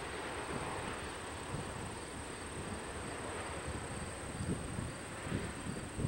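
Union Pacific freight train rolling past in the distance: a steady rumble with many irregular low knocks, and a few louder thumps in the second half.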